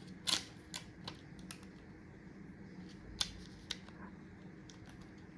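Small clicks and taps from handling a phone housing on a work surface while its screen adhesive seal is pressed into place, with louder clicks near the start and about three seconds in. A faint steady hum sits underneath.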